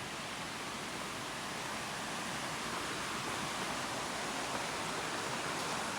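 Steady rush of a cascading mountain creek below a waterfall, growing slightly louder.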